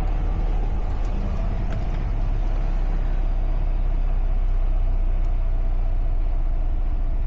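Semi-truck's diesel engine idling with a steady low rumble.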